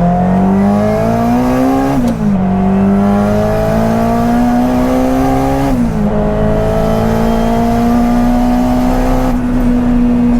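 Turbocharged Honda K-series four-cylinder (K20 block with K24 head) in a Toyota MR2, accelerating at full throttle: the engine note climbs with the revs, drops sharply at upshifts about two and six seconds in, then climbs again more slowly and levels off near the end.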